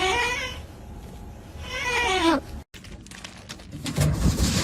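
An animal calling twice, each a long drawn-out call, the second falling in pitch. Near the end the calls give way to scattered clicks and rustling.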